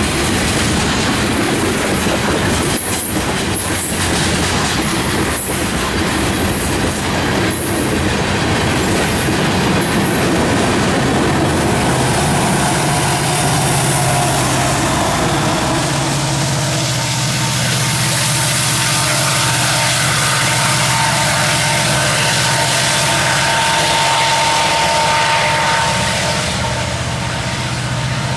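A freight train passing close by: loaded hopper cars rolling and clacking over the rail joints. About halfway through, the rear distributed-power diesel locomotive goes by with a steady low engine drone and a steady high whine, and the sound eases slightly near the end as it moves away.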